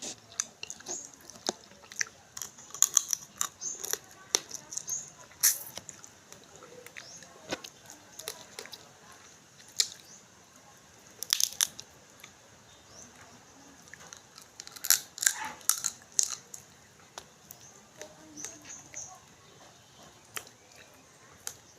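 A person eating: close-up chewing with irregular crunches, tearing and wet smacking clicks, louder clusters about five, eleven and fifteen seconds in.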